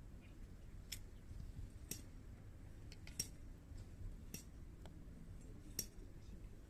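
Hardwood firewood burning in a fire pit, crackling faintly with sharp single pops about once a second.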